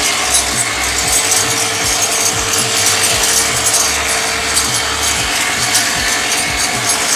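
Old tractor engine running steadily.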